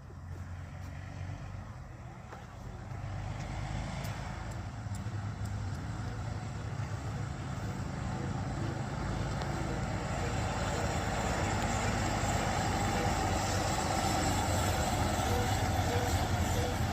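Engine of a 1966 Scania-Vabis BF 76 bus running, a steady low hum that grows gradually louder.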